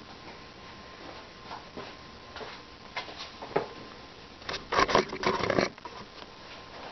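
HO scale model freight cars clicking and rattling, with scattered light plastic clicks and a brief burst of quick clatter about four and a half seconds in.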